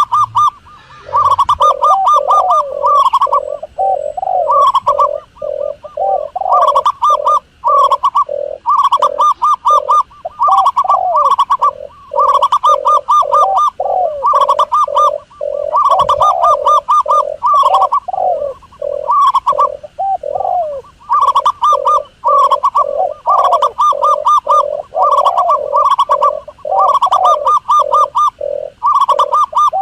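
Doves cooing without a break: rapid runs of short, repeated coos, with lower coos that bend downward overlapping them, in bouts with brief gaps.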